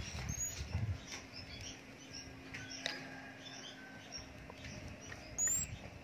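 Young small minivets (burung mantenan) giving a few thin, very high-pitched chirps, one just after the start and another near the end, with fainter small calls in between.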